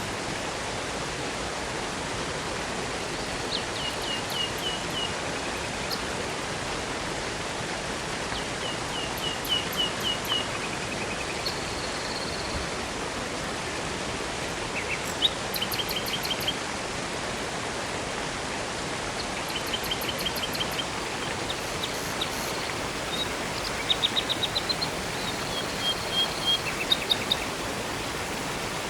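Steady rush of flowing river and waterfall water, with a songbird singing short phrases of quick repeated high notes every few seconds, most often near the end.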